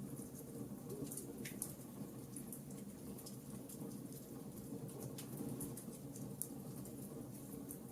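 Wood fire crackling in a fireplace: many small, irregular pops and snaps over a steady low rush.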